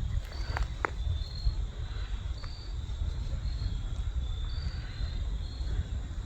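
Wind rumbling on the microphone, with short high chirps repeating about every half second at two alternating pitches.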